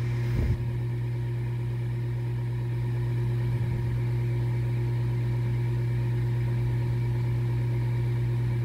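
2004 Goodman furnace's draft inducer motor running with a steady hum while the igniter heats up, before the gas valve opens. There is a brief thump about half a second in.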